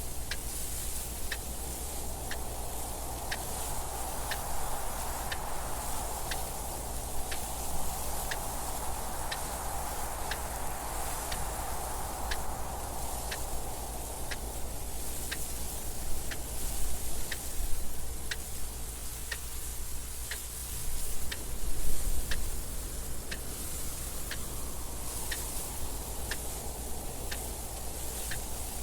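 Clock ticking steadily, with wind noise that swells and fades behind it.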